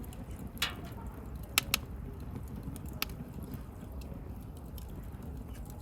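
Wood bonfire crackling: a low steady rumble of burning with a few sharp pops. The loudest is a quick pair about a second and a half in.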